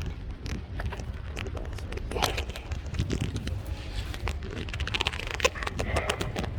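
Low, steady wind rumble on the microphone while riding a bicycle, with many irregular clicks, crackles and rattles from the bike and the camera mount.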